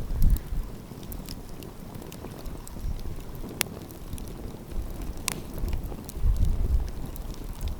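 Wood fire crackling, with a few sharp pops, two of them standing out about three and a half and five seconds in. Gusts of wind rumble on the microphone near the start and again near the end.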